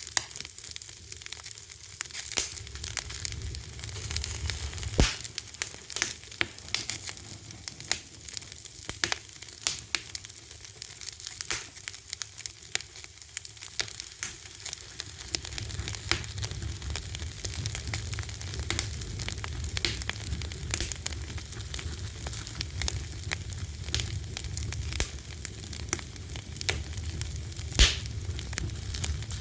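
A fire crackling, with many sharp pops over a soft hiss. A low rumble of the flames comes up about halfway through. Two louder pops stand out, one about five seconds in and one near the end.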